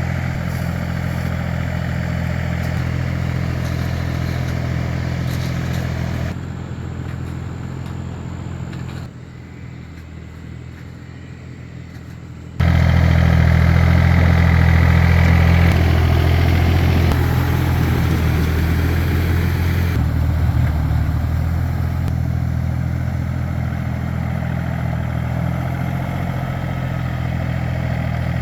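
Tractor engine running steadily with a low, even note. It gets quieter about six seconds in and again at nine, then comes back suddenly loud about twelve and a half seconds in.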